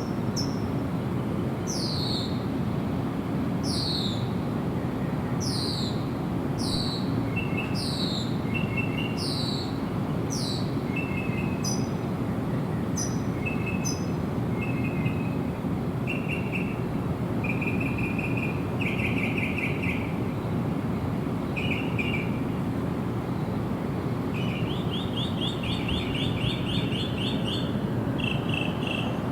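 Songbirds singing: one repeats a high, falling whistled note about once a second for the first ten seconds or so, while another gives short chirps and, near the end, a quick trill. A steady low noise runs underneath.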